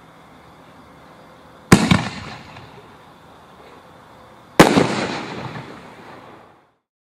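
Two aerial shell bursts about three seconds apart, each a sharp loud bang that trails off over a second or two; the shells are canister shells. The sound cuts out abruptly near the end.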